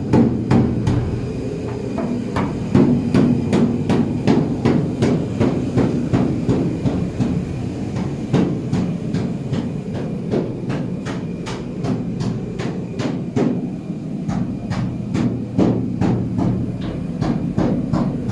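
Hammer blows on metal: sharp, irregular strikes a few times a second, over a steady low hum.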